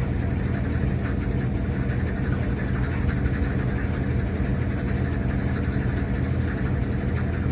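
RCA RPW302 portable washing machine running with a steady motor hum and vibration. The camera is resting on top of the washer, so the sound is picked up through the cabinet and sounds louder than it is in the room.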